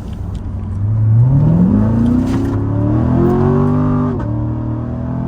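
Corvette V8 accelerating hard from a launch: the engine note climbs steeply for about two seconds, levels off, then drops at an upshift about four seconds in.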